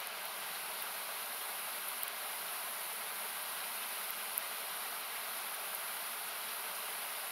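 Steady rush of river water, equalised so it comes through as an even hiss that is strongest in the highest range, with a few faint sharp pops from a crackling wood campfire.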